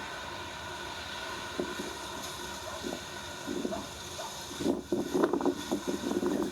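Steady hiss of air traffic control radio static with faint steady tones. In the second half a muffled, garbled transmission comes through in choppy bursts, and the hiss drops away as it opens.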